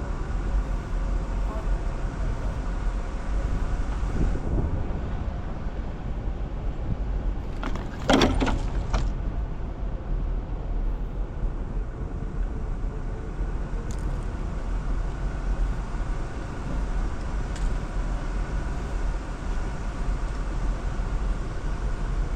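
Jeep Wrangler driving slowly off-road, its engine and drivetrain giving a steady low drone. A quick cluster of loud knocks comes about eight seconds in, with single faint clicks later.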